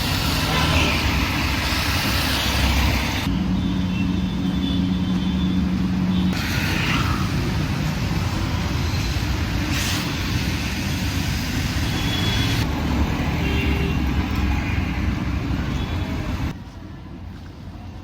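Busy road traffic on a wet street: vehicle engines running close by with tyre hiss that swells and fades as vehicles pass, and a steady low hum for a few seconds early in the first third. The noise drops off suddenly near the end.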